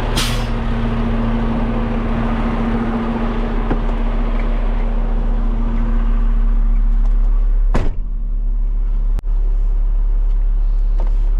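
Peterbilt 589 dump truck's diesel engine idling, a deep steady rumble, with a steady hum that stops about nine seconds in. A few short sharp clicks or knocks cut through it: one at the start and two more about eight and nine seconds in.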